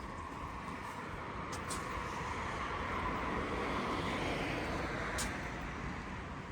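A car passing on the street, its engine and tyre noise swelling to a peak about halfway through and then fading, over a steady traffic hum. A couple of short, sharp clicks come through on top.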